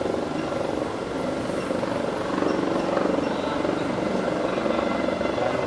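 Helicopter running steadily, a continuous rapid rotor chop over engine noise, getting a little louder about halfway through.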